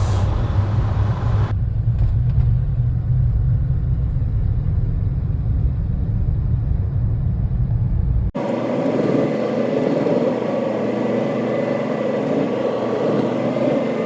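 Car driving on the road: a steady low rumble of engine and tyres. About eight seconds in, the sound switches abruptly to a brighter, steady running noise.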